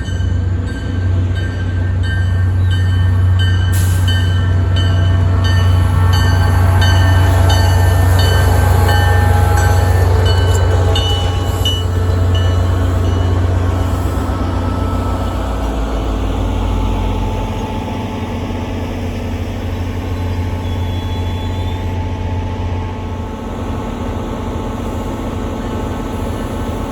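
A train rolling past with a steady low drone and high ringing wheel-on-rail tones. It is loudest about eight seconds in, then slowly fades as the high tones die away.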